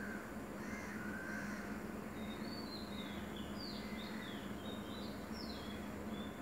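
Birds chirping in the background, with a run of quick, high, falling chirps in the middle, over a steady low hum.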